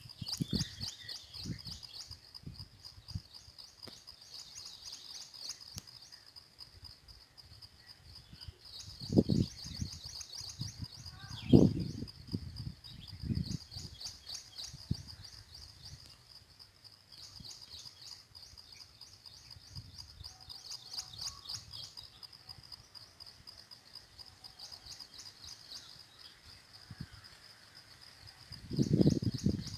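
Birds singing in rapid high trills, phrase after phrase of two or three seconds, over a steady thin high-pitched tone. A few dull low bumps come around the middle and near the end.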